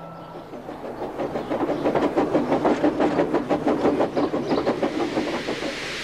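Steam train running along the rails: a rapid, even clatter that builds up over the first couple of seconds and then holds steady.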